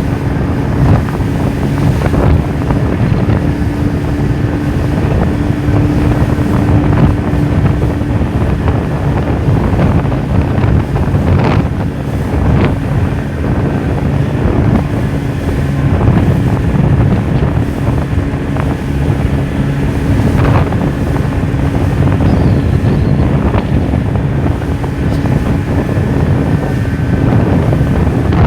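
A boat's motor running steadily under way, with wind buffeting the microphone and water rushing past, and a few short splashes about halfway through.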